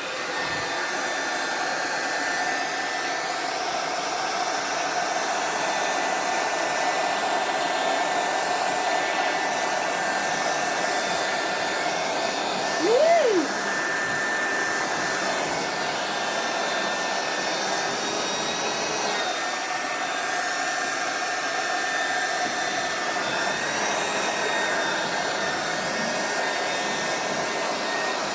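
Handheld hair dryer with a duck-bill nozzle running steadily on its hot setting: a constant rush of air with a steady whine. About halfway through, a short sound rises and falls in pitch over it.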